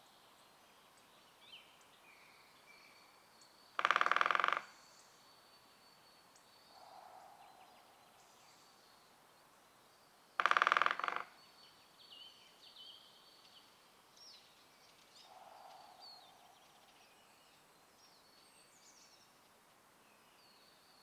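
Great spotted woodpecker drumming twice on a resonant dead tree: two loud rolls of very rapid strikes, each under a second long, about four and ten seconds in. Between them, a much fainter, duller drum roll answers twice, taken by the uploader for a rival female drumming in the territory; faint songbird chirps are heard throughout.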